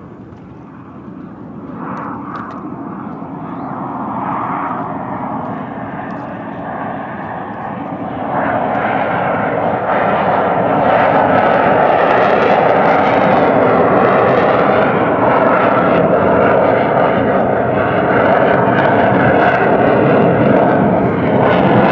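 An aircraft flying past at an air show, its engine noise growing louder over about eight seconds and then staying loud and steady.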